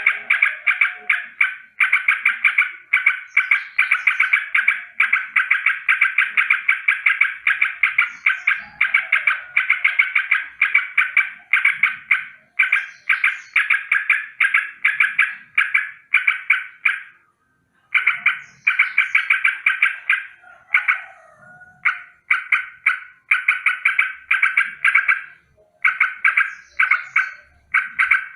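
Yellow-vented bulbul (trucukan) giving a rolling, rattling chatter of rapid repeated notes. The notes come in long runs broken by short pauses, one of them just after the middle. The uploader calls this rolling song a danger alarm.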